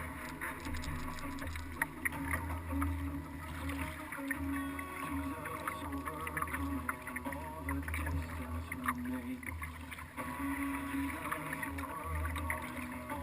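A kayak moving on the water, heard from a camera mounted on it: water sloshing and lapping against the hull, with small knocks and a low rumble that swells and fades every second or two.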